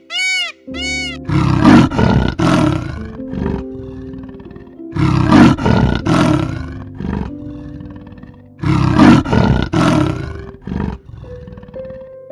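Big cat roaring: three loud bouts of roars, each a couple of seconds long with two or three pulses, over background music.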